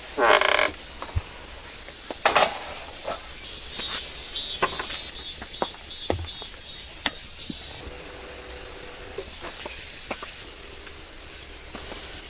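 Steady hiss of heavy rain, with scattered sharp clicks and knocks of gear being handled. The loudest are a short ringing clatter just after the start and a sharp knock about two seconds in, followed by a quick run of ticks around the middle.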